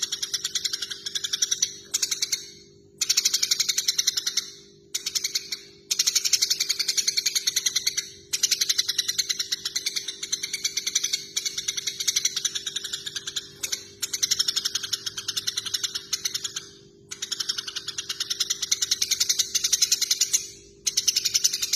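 Eurasian tree sparrows giving fast, agitated chatter: runs of rapid chirps, many a second, each run lasting one to three seconds with brief breaks between, the excited calling of sparrows squabbling.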